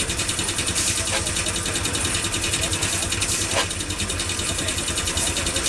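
Old stationary engine running steadily with a rapid, even beat.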